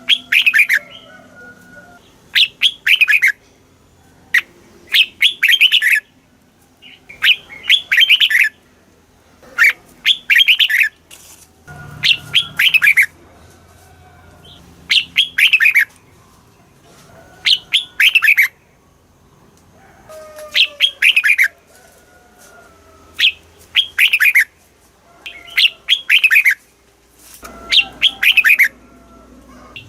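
Red-whiskered bulbul singing: short, loud phrases of quick notes falling in pitch, repeated every two to three seconds with brief pauses between.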